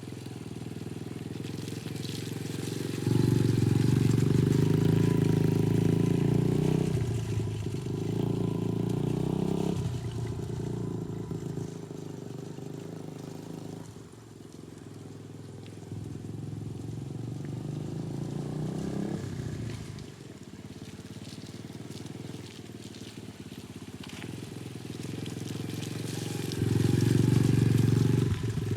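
A 125cc dirt bike engine running as the bike is ridden around, its pitch and loudness rising and falling with the throttle. It is loudest from about three to seven seconds in and again near the end.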